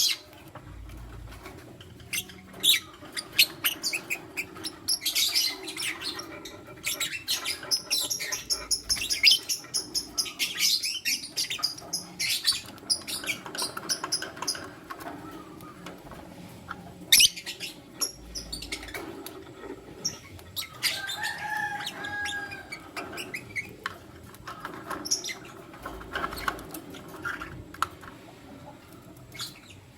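Lutino lovebirds chirping: many sharp, high chirps and clicks, in quick runs that are busiest in the first half, with a short whistled note about two-thirds of the way through.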